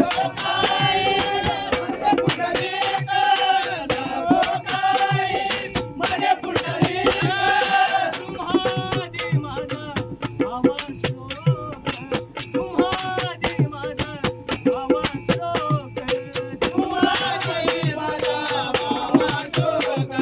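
Marathi devotional bhajan music: a melody line over a steady drone, driven by a fast, even beat of hand cymbals and drum.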